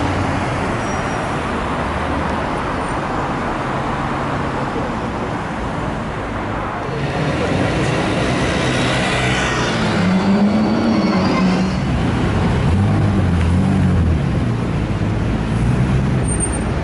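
Supercar engine running in city street traffic, with the revs rising and falling a few times in the second half. A scooter passes close by about halfway through.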